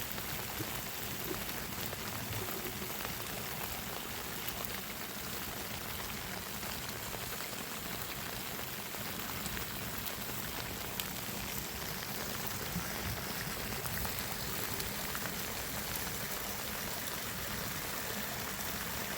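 Steady rain falling, an even patter of drops with a few sharper drop ticks here and there.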